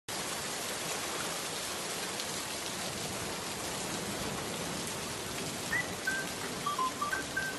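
Steady rain pouring down, an even hiss of falling water. Near the end a few short whistled notes at changing pitches come in over it.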